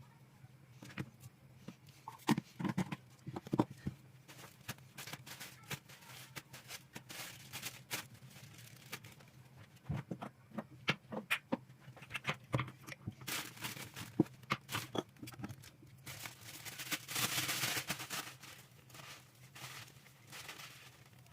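Household handling noises: a string of light clicks, taps and rustles, with a longer, louder rustling noise about three-quarters of the way through.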